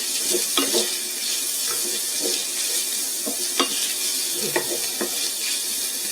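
Pork breakfast sausage sizzling as it browns in a pan with a little olive oil, with scattered clicks of a utensil stirring it against the pan.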